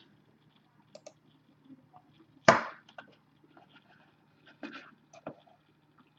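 Scattered clicks of a computer mouse and keyboard, with one sharper, louder click about two and a half seconds in, over a faint steady low hum.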